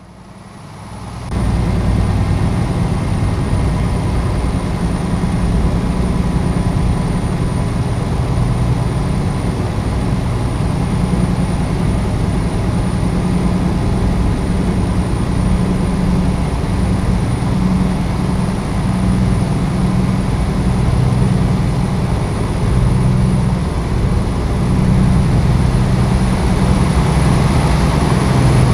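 Scania G-series truck's diesel engine running steadily under heavy load, a deep drone that cuts in suddenly about a second in.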